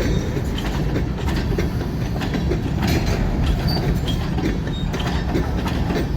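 Freight train boxcars rolling past on the rails: a steady low rumble with frequent clicks and clanks of wheels over the track, and a brief high wheel squeal about halfway through.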